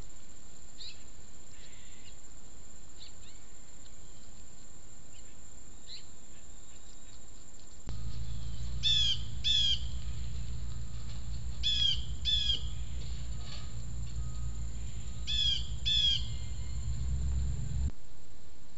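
A bird calling in three pairs of quick calls, the pairs about three seconds apart, over a low steady rumble that starts about eight seconds in and cuts off near the end. Fainter scattered chirps come before it.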